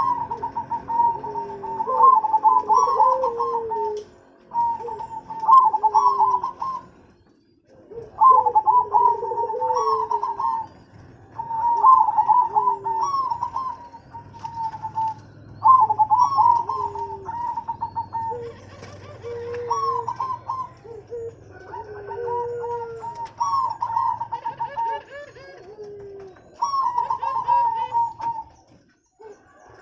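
Zebra doves (perkutut) singing: phrases of rapid staccato coos with lower trailing notes, a new phrase every three to four seconds with brief pauses between.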